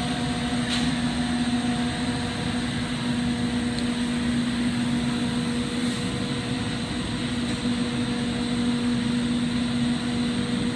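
Glassblowing torch flame burning steadily, a continuous even rush, with a constant low hum underneath.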